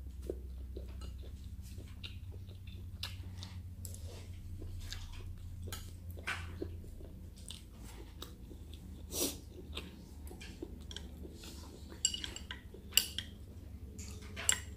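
Close-up mouth sounds of a person chewing squid with rice, with soft wet crackles and smacks, and now and then the click of chopsticks against the plate. A steady low hum runs underneath.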